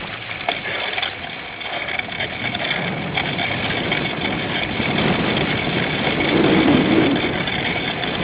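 Riding noise of a cyclocross bike picked up by a handlebar-mounted camera: steady rumble and rattle of the bike over rough ground, with wind noise, getting louder around the middle.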